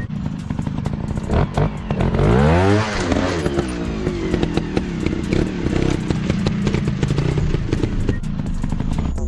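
Single-cylinder trail motorcycle engine running off-road, revving up and back down once about two to three seconds in, the loudest moment. Short clattering knocks from the bike run throughout.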